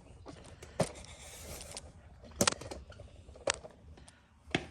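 Four or five sharp plastic clicks and knocks, spread out, as car interior trim panels are worked loose and handled.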